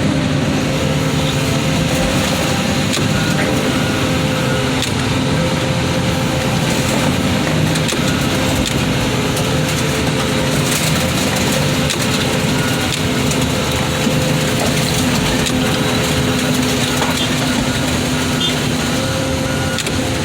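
A car crusher's turbocharged diesel engine running steadily as it drives the crusher's hydraulics.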